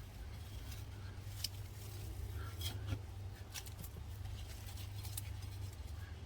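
Hands digging through loose potting soil, a soft rustle with scattered small crackles and clicks as dirt and potatoes are moved, over a steady low hum.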